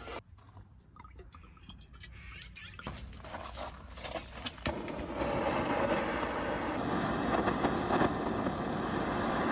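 Liquid running and splashing into a pot. A few sharp knocks come first, then the splashing builds up and holds steady through the second half.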